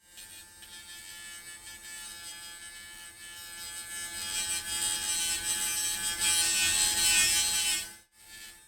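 Dremel rotary tool running and grinding the ends of a fuse to prep them for soldering: a steady high-pitched whine with a grinding hiss. It gets louder about four seconds in as the tool bears on the work, and stops shortly before the end.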